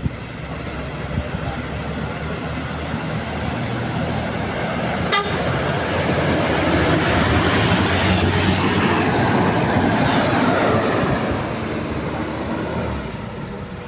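A heavy truck's diesel engine labouring up a steep climb as it passes close by, growing louder to a peak in the middle and fading near the end, with a sharp click about five seconds in.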